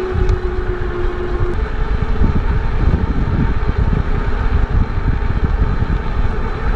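Wind buffeting the microphone and road noise from a moving e-bike, a steady rushing rumble. A steady hum stops about a second and a half in.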